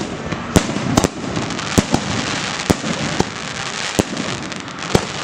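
Fireworks display: aerial shells bursting in sharp bangs at uneven intervals, about seven in five seconds, over a continuous dense crackling.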